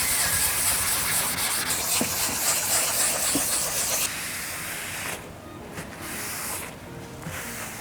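Sandpaper rubbing over a plastic headlight lens in hand wet-sanding with 400 grit: a steady rasping hiss that drops quieter about four seconds in and turns intermittent, with short pauses between strokes.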